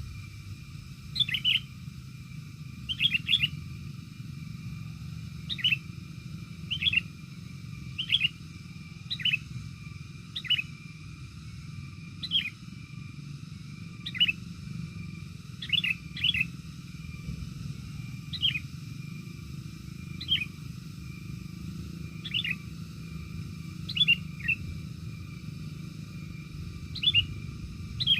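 A bird calling over and over: short, quick falling chirps, often two or three together, repeating about every second or two over a steady low background rumble.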